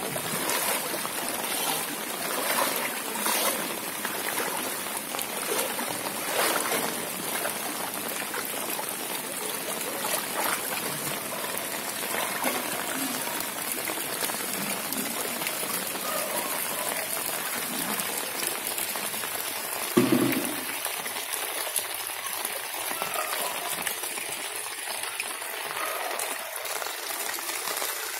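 Heavy rain falling onto standing floodwater, a steady hiss, with one short thump about two-thirds of the way through.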